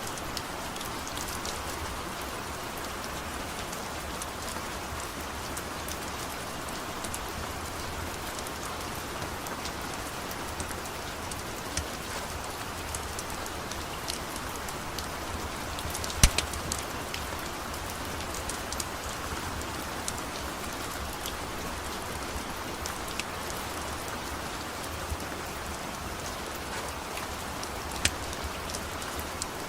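Steady rain with scattered sharp crackles and pops from a wood fire burning; the loudest pop comes about 16 seconds in and another near the end.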